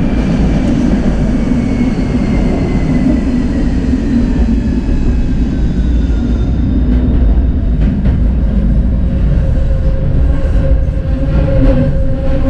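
Electric tram running on its rails with a steady heavy rumble. Its motor whine glides down in pitch over the first half as it slows, then a steady hum remains with scattered clicks from the wheels and track.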